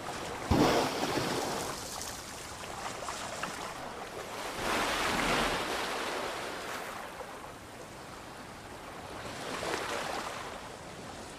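Sea waves washing in surges over rocks, the strongest about half a second in, with further swells around five and ten seconds.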